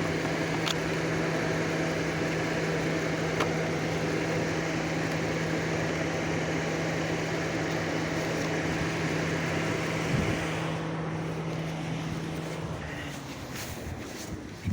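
Steady mechanical whirring hum from a car with a low, even tone. The hiss fades about ten seconds in and the hum stops near the end.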